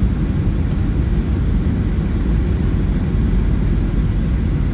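Steady low rumble of a Boeing 737-700's engines and airflow as heard inside the passenger cabin in flight, with faint steady high-pitched tones over it.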